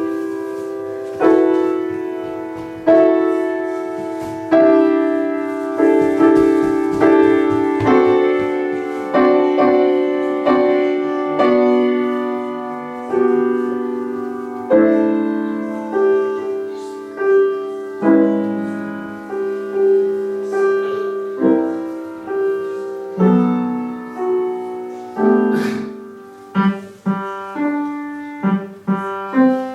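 Piano playing a slow piece, each note or chord struck and left to ring out, with quicker notes near the end.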